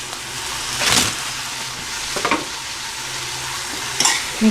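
Chicken pieces sizzling in a pan of frying onion, tomato and spice masala, stirred with a spoon that scrapes against the pan three times.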